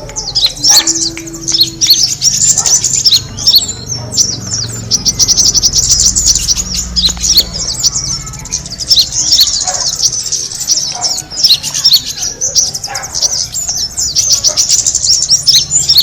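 Kemade bird lure call, the sound used to attract these birds: a dense, unbroken stream of rapid high-pitched chirps and trills.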